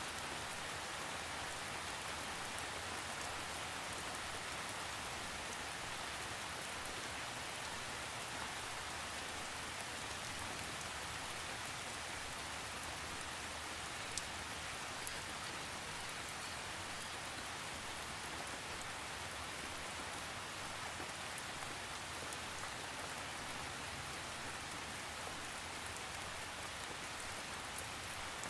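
Steady rain falling on a surface, an even hiss with scattered drop ticks, one sharper tick about halfway through; no thunder.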